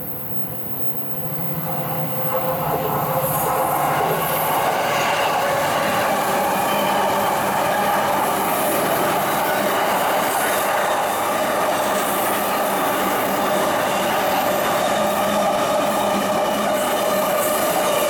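JR East E233-series electric commuter train running through the station on a curve without stopping, its running noise building over the first few seconds and then holding steady as the cars go by close. A steady squeal from the wheels runs through it.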